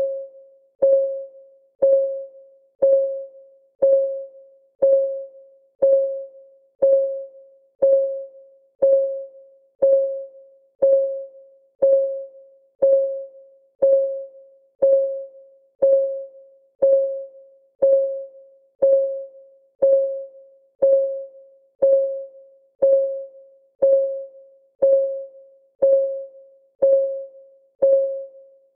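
Countdown timer's clock ticking sound: a steady, even tick about once a second, each a sharp click followed by a short, decaying pitched ring.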